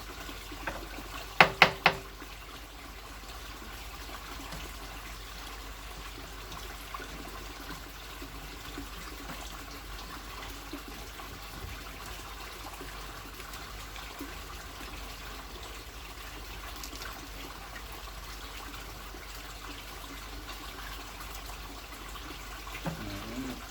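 Steady trickling of running water, with three sharp knocks about a second and a half in.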